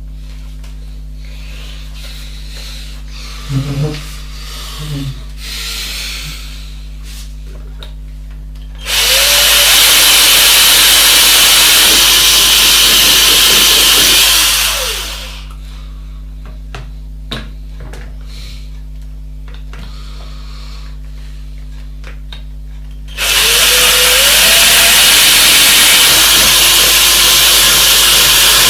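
A handheld electric power tool run twice for about five seconds each, spinning up with a short rising whine at each start and winding down at each end. A few light knocks come a few seconds before the first run.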